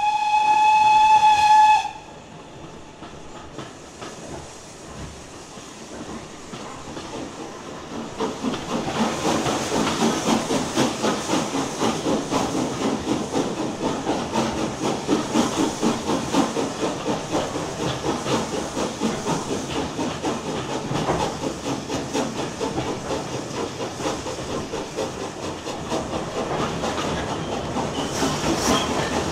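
A train horn or whistle sounds one steady, loud note for about two seconds and cuts off. From about eight seconds in, the rapid rhythmic clatter of a passing train's wheels over the rail joints builds and keeps going.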